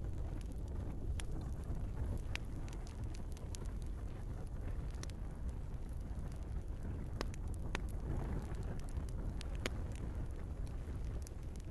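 Log fire burning in a fireplace: a steady low rumble of the flames with irregular sharp crackles and pops from the burning wood.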